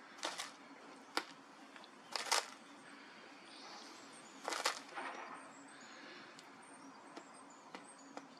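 Faint, high, short bird chirps repeating in the background, with four short, sharp noises, the loudest sounds, about a second apart early on and once more near the middle.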